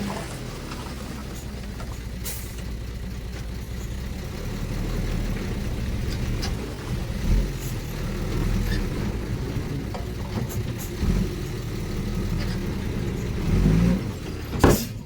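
Diesel engine of heavy earthmoving machinery running with a steady low rumble, with a few sharp clanks, the loudest near the end.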